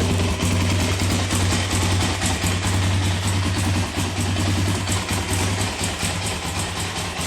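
Arctic Cat DVX 400 ATV's single-cylinder four-stroke engine idling steadily, with no revving.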